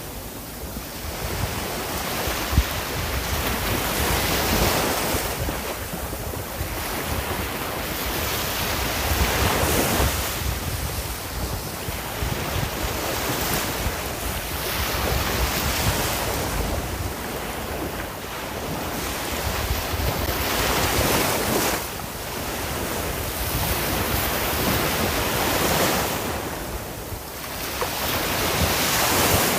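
Ocean waves breaking and washing on the shore, the surf swelling and easing every few seconds.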